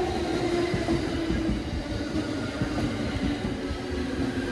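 E231-1000 series electric commuter train running past at medium speed as it pulls into the station, a steady rumble of the cars on the rails with a steady whine over it.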